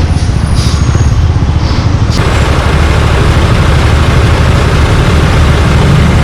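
Suzuki Gixxer 155's single-cylinder engine running through an aftermarket exhaust, a fast, steady low pulsing. About two seconds in, a rushing hiss comes up over it.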